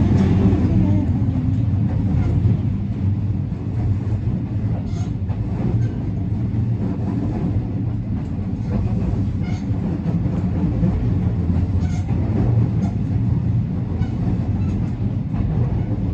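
JR West 207 series electric train running at a steady pace: a continuous rumble of wheels on rail and motor hum, with a few faint clicks.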